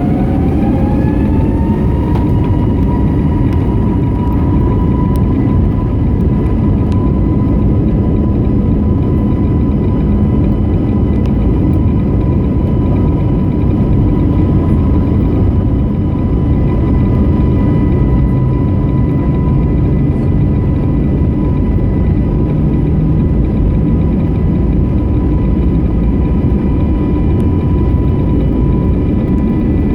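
Airbus A321neo's Pratt & Whitney geared turbofan jet engines at takeoff power, heard from the cabin: a whine rises in pitch over the first two seconds and then holds steady over a loud, even rumble, the engines spooling up to takeoff thrust.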